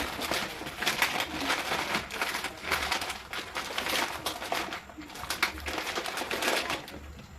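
Rustling, crinkling and light knocking of grocery packaging being handled, fading near the end.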